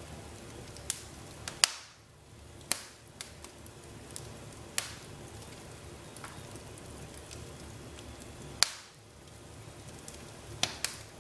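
Wood fire crackling in a fireplace: a steady low rustle of burning with scattered sharp pops and snaps, the two loudest about a second and a half in and about eight and a half seconds in.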